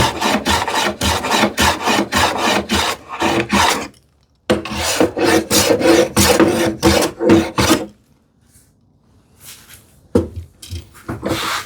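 Hand plane set for a light cut taking fine shavings off the edge of a wooden drawer front in quick repeated strokes, about three a second. The strokes come in two runs with a short pause between, then a quieter spell and a few more strokes near the end.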